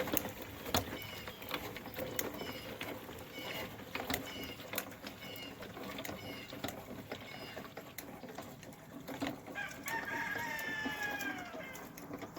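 A rooster crows once about ten seconds in, a long call that falls in pitch at its end. Before it comes a run of short high chirps, about two a second, with scattered clicks and knocks.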